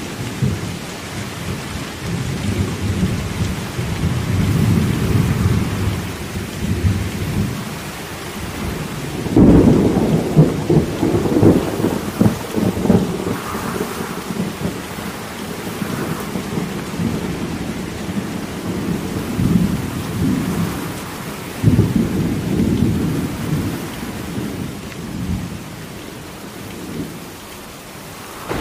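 Thunderstorm: steady rain under rolling, rumbling thunder. A loud peal breaks in suddenly about a third of the way in and rumbles on for several seconds, and another roll starts suddenly about three quarters of the way through.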